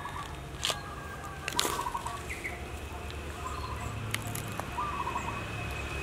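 Birds calling: a short warbling call repeated every second and a half or so, with a thin steady high tone joining about two seconds in. Two sharp clicks stand out as the loudest moments early on.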